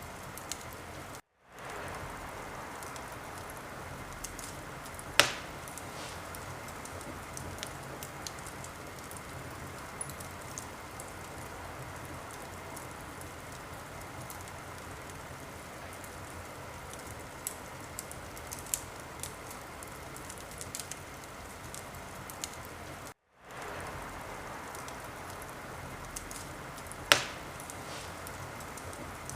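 Wood fire burning in a fireplace: a steady hiss with many small crackles and two sharp, louder pops. The sound cuts out completely for a moment twice.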